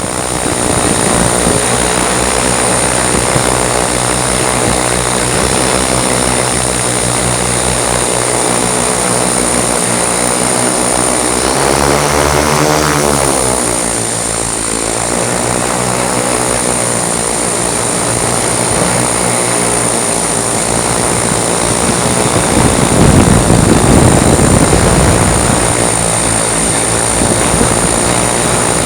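X8 coaxial multirotor's eight 135kV motors and 28-inch propellers running in flight with a steady multi-toned hum and a high whine above it. About twelve seconds in, the pitch rises and then falls back. The sound grows louder and rougher for a few seconds past the twenty-two-second mark.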